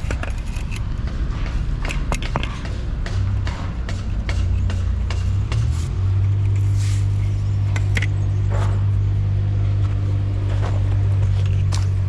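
An engine running steadily with a low hum that grows stronger and holds even about halfway through, with many scattered clicks and knocks over it.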